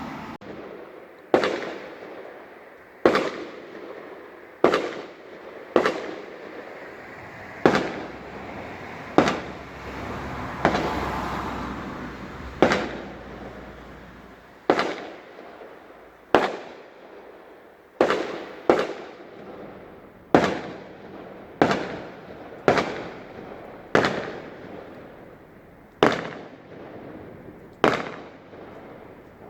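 Fireworks bursting in a steady series of about twenty sharp bangs, one every second or two, each trailing off in an echo. A longer hiss runs between the bangs about ten to thirteen seconds in.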